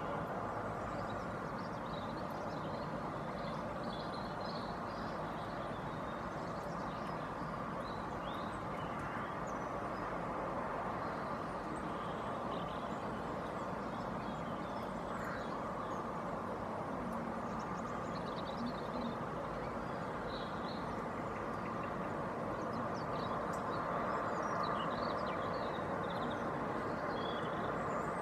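Steady hum of distant road traffic, with small garden birds chirping and twittering in short, scattered calls throughout.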